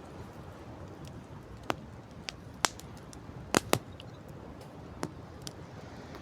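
Campfire crackling: wood popping in sharp, irregular snaps, about six in a few seconds, two of the loudest close together past the middle, over a steady low rumble of wind and sea.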